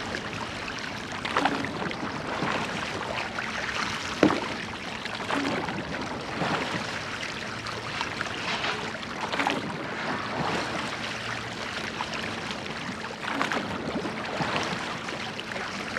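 Water rushing and splashing around a rowed church boat underway, with irregular sharp splashes or knocks from the oars. The loudest comes about four seconds in.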